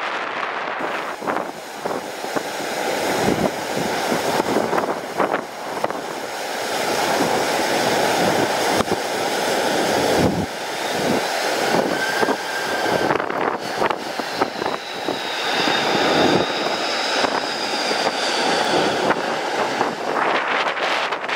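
Strong gusty wind buffeting the microphone, with a jet airliner's engines passing on approach to land, a faint high whine of the engines heard in the second half under the wind.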